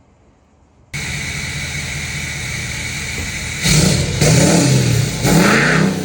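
Ford 6.7 L Power Stroke V8 turbodiesel through a 5-inch straight-pipe exhaust with the DPF deleted, running loud after cutting in about a second in, then revved up and back down three times in quick succession.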